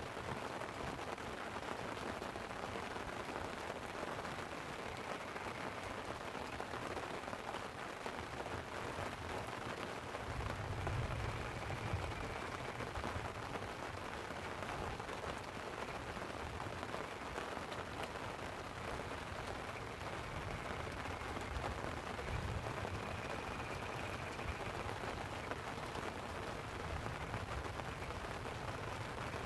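Steady hiss of light rain on a tent, mixed with running river water. Low rolling thunder swells about a third of the way in and again past the middle.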